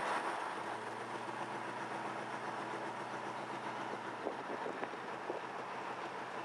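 Steady road noise of a moving vehicle, a continuous rumble and hiss with a low engine hum that fades out about four seconds in, and a couple of faint clicks near the end.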